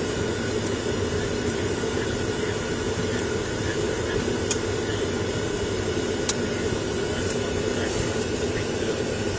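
Steady, even background noise with a low hum, broken only by a couple of faint clicks.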